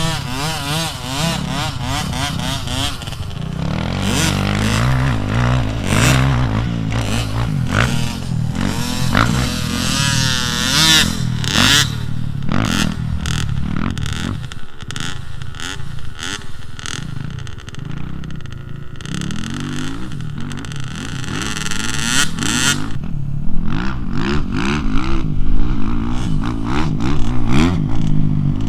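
Dirt bike engine revving up and down again and again as the bike is ridden around a loop. Frequent clattering knocks run through it.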